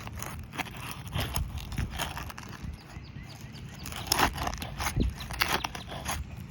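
Asphalt roof shingle being worked loose from its sealant strip: irregular scrapes, knocks and crackles, busier about four seconds in.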